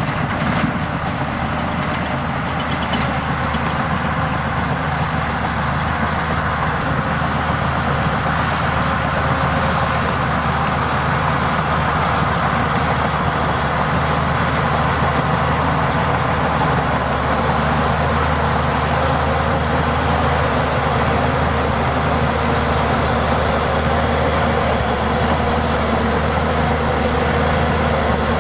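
Heavy diesel earthmoving machinery engine running steadily, with a few clanks in the first few seconds.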